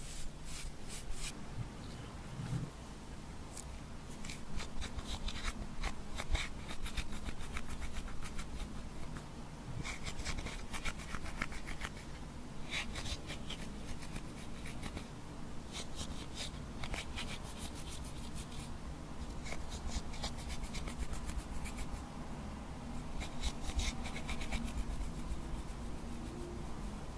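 Glossy slime being squished and stretched by hand, giving clusters of many small wet clicks and crackles.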